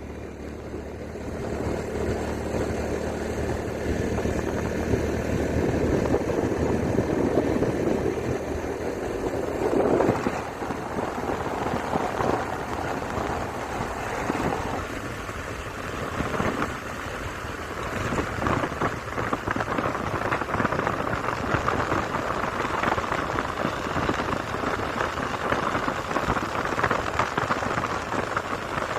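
Vehicle travelling on a road wet from rain: a steady engine hum under a hiss of tyres on the wet surface, with the hiss growing louder and brighter after about ten seconds.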